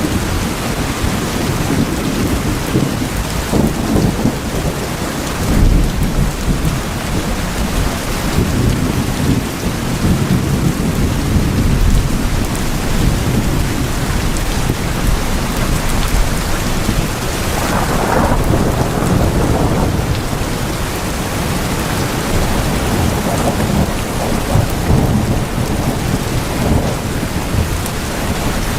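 Heavy rain drumming steadily on tin roofs, with low rumbles of thunder swelling and fading underneath.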